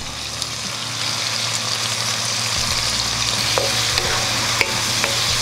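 Diced chicken sizzling steadily in hot olive oil in a non-stick wok, stirred with a wooden spoon, with a few light clicks of the spoon against the pan near the end.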